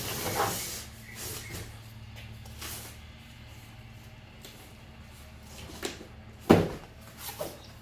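Generator packaging and parts being handled during unboxing: rustling and scraping at first, then a few knocks, the loudest a sharp knock about six and a half seconds in.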